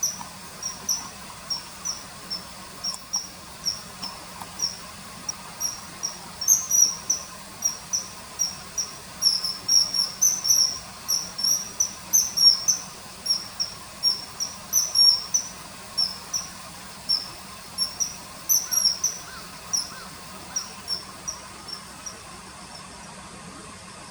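Common kingfisher calling: a rapid series of short, high, shrill notes, coming faster and louder in the middle and thinning out near the end.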